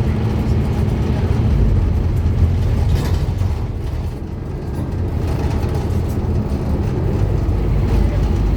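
Scania N230UD Omnicity double-decker bus's five-cylinder diesel engine running under way, a steady low drone; the engine sound dips briefly about four seconds in and then picks up again.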